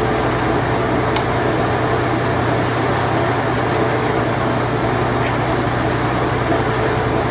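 A vintage Whirlpool Imperial Clean Touch washing machine in its spin cycle, running with a steady whir and a constant low hum. Two faint ticks come about a second in and about five seconds in.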